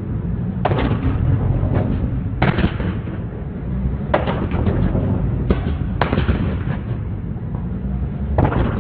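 A car engine rumbling with loud, sharp exhaust pops and bangs, about six of them at irregular intervals, typical of a tuned supercar's exhaust backfiring on the overrun.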